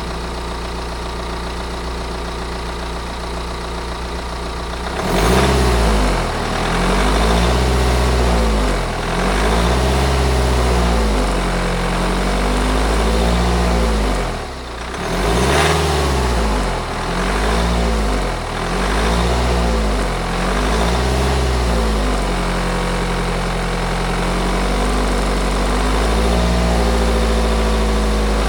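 BMW N47 2.0-litre four-cylinder diesel idling steadily, then revved in repeated blips, each rising and falling in pitch every second or two, before settling back to a steady, slightly higher idle near the end. The engine is run this way to listen for the N47's timing chain rattle.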